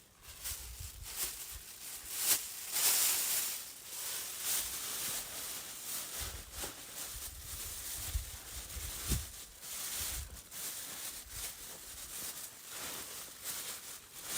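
Rustling and scattered light knocks of camping gear being handled. Low wind buffets the microphone in surges, and a louder rush of rustle comes about two seconds in.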